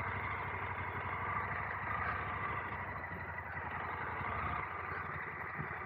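KTM adventure motorcycle engine running steadily while riding over a corrugated dirt road, with a fast, even low pulsing as the bike works through the corrugations.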